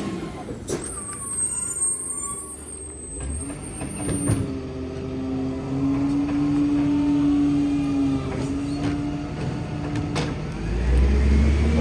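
Garbage truck's engine running with a steady hum, a thin high whine over it in the first few seconds, and the engine growing louder near the end.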